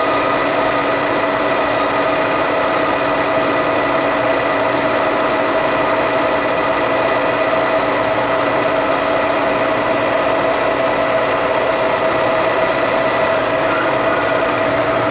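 Metalworking machine tool running steadily through a cut, a continuous machine whine holding several fixed tones with no change in speed.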